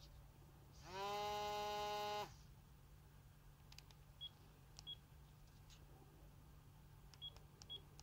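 Sagem myC-2 clamshell mobile phone: its speaker sounds one held electronic tone for about a second and a half near the start. Keypad presses follow, giving faint clicks and several short high key beeps.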